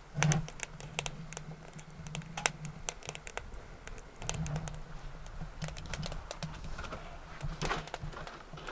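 Sticks crackling and popping as they burn in the firebox of a BioLite BaseCamp wood stove, with irregular sharp snaps, and a low hum that comes and goes underneath.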